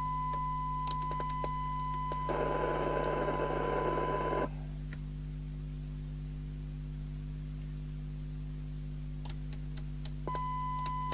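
A steady 1 kHz test tone from a CB radio's speaker, received from a signal generator. About two seconds in, a rush of hiss joins it, and both cut off abruptly about four and a half seconds in as the squelch closes. The tone comes back near the end as the squelch opens again at its threshold, over a low steady hum and a few faint clicks.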